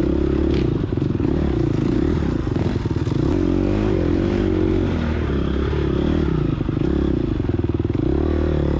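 Gas Gas EX250F's 250cc four-stroke single-cylinder dirt bike engine running under load, the revs rising and falling again and again as the throttle is worked.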